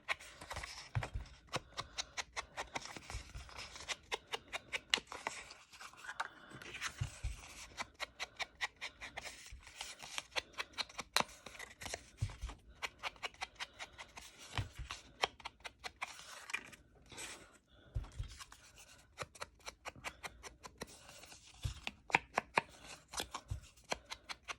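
Paper tags being worked by hand: a quick run of small, crisp taps and scrapes, several a second, with a brief pause about two-thirds of the way through.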